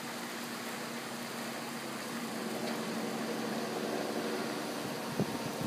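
Heavy thunderstorm rain pouring down with gusty wind, a steady hiss, with a short thump about five seconds in.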